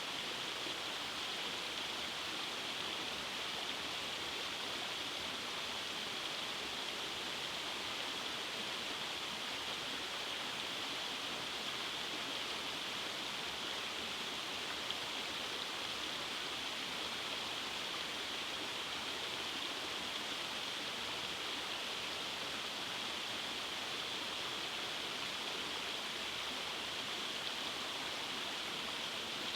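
Rainforest stream running over cascades: a steady, even rush of flowing water.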